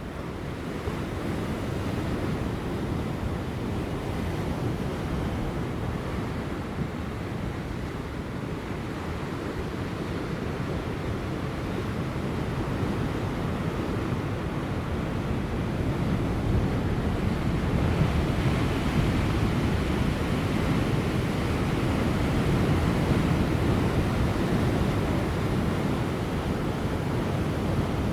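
Large ocean waves breaking on rocks: a continuous deep wash of surf that swells and eases, building louder over the second half, with light wind.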